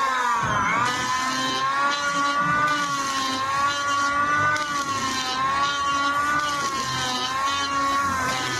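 Handheld electric planer running and cutting wood: a steady high motor whine that dips in pitch and recovers several times as the blades take load, over a hiss of cutting.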